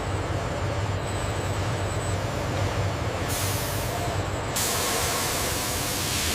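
Steady low hum of factory machinery with a hiss over it. The hiss swells about three seconds in, dips briefly, then returns louder and holds.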